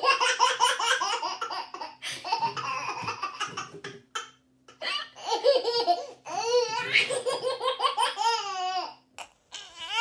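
Baby laughing in long runs of rapid giggles, breaking off briefly about four seconds in before starting again.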